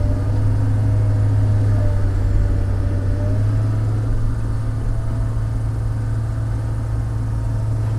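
Log loader's diesel engine running steadily with a deep, even hum, a faint higher whine wavering over it for a couple of seconds.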